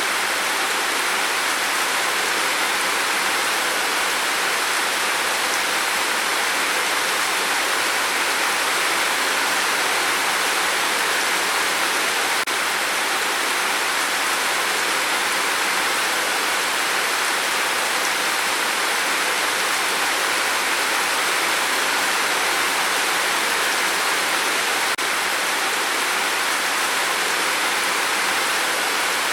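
Rain falling steadily on a tin roof: an even, dense hiss with no drops standing out.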